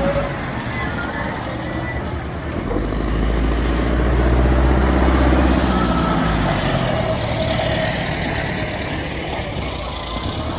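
Heavy diesel machinery engine running, rising in load about three seconds in and easing back down after about six seconds.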